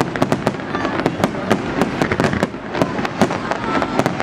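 Fireworks going off: many overlapping sharp bangs and crackles in quick, irregular succession.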